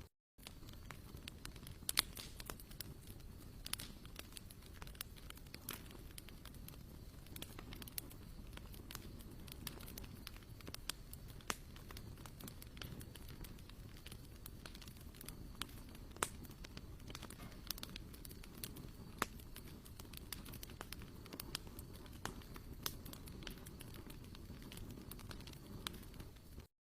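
Wood campfire crackling: irregular sharp pops and snaps over a steady low noise.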